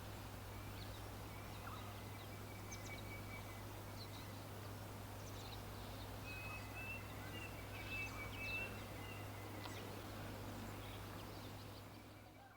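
Forest ambience: scattered songbirds chirping, with short thin whistled notes, over a steady background hiss and a low hum, fading out near the end.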